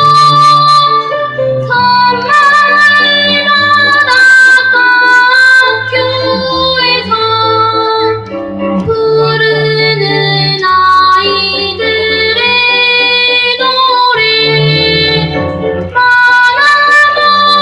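A child singing a song in long held notes over musical accompaniment.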